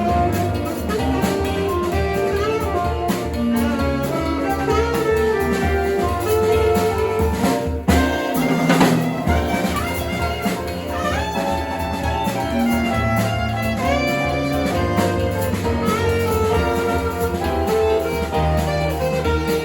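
Small jazz band playing live: alto saxophone melody over piano, keyboard and drum kit, with a cymbal crash about eight seconds in.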